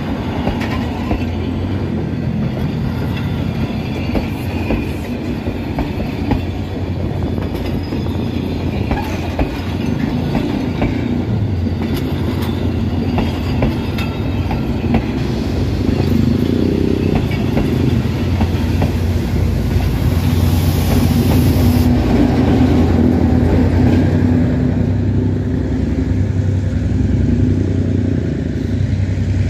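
Passenger train carriages rolling past close by, a steady rumble with wheels clicking over the rail joints. A diesel locomotive's engine hum joins in and the sound grows louder past the middle, then eases off near the end as the train draws away.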